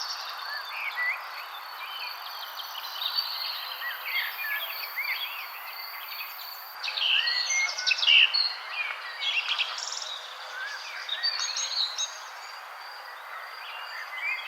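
Many small birds chirping and twittering in quick, overlapping calls over a steady background hiss. The chirping grows busier and louder about halfway through.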